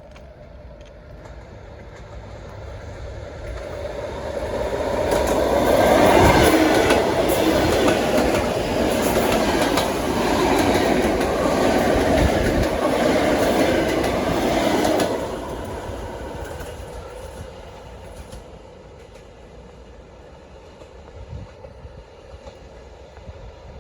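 ED4M electric multiple unit passing by. Its sound builds as it approaches, then comes a loud rush of wheels on rail with clicks over the rail joints for about nine seconds. The noise drops off sharply as the last car goes past and fades away.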